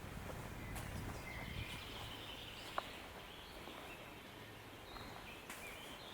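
Faint birdsong, several short warbling phrases, over a soft outdoor background. A low rumble fades out in the first couple of seconds, and one sharp click sounds a little under three seconds in.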